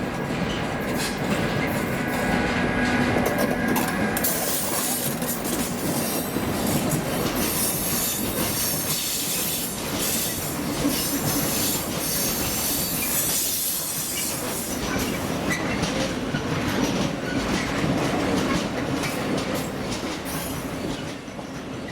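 A train running past on the line, its wheels clattering steadily over rail joints, with a thin steady whine in the first few seconds; the sound drops away near the end as the train clears.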